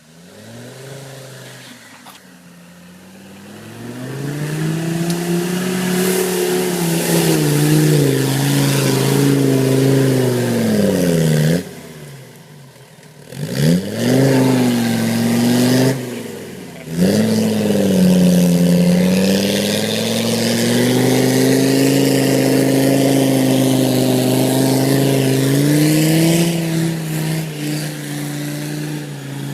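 Mercedes 617 3.0 five-cylinder diesel engine in a UAZ, revving up and down under load off-road, its pitch repeatedly rising and falling, with two short breaks in the sound near the middle.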